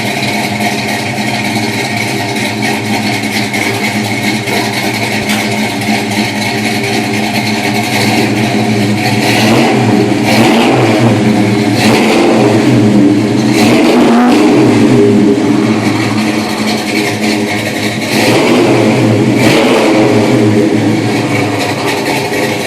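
Hot rod's 440 engine running through a new exhaust. It idles steadily and is blipped up in revs several times, loudest from about ten to fifteen seconds in and again from about eighteen to twenty.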